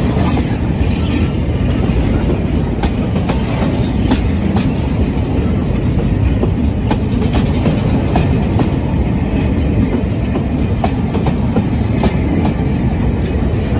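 Oil tank wagons of a freight train rolling past close by: a loud, steady rumble of steel wheels on the rails, with scattered clicks and clanks from the wheels and couplings.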